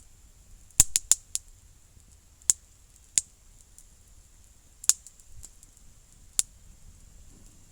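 Wood campfire crackling: about eight sharp, irregular pops and snaps, four of them close together about a second in and the rest spaced out.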